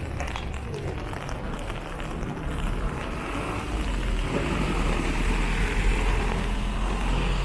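A car passing on a wet street: tyre hiss and a low engine rumble that build to a peak about six seconds in, then ease off.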